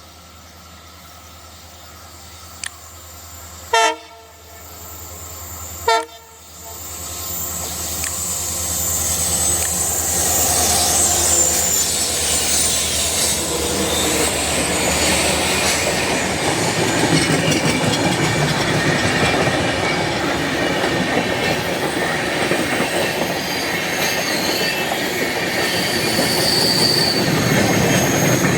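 Diesel locomotive approaching with its engine drone, sounding two short horn blasts about four and six seconds in. The train then passes close by, its wheels clattering and rumbling loudly on the rails, with a thin wheel squeal near the end.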